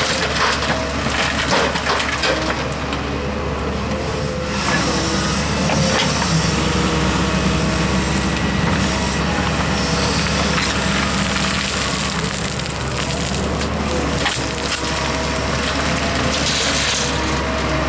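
A diesel excavator engine running under load, with soil and rock crunching and clattering as the bucket digs into earth.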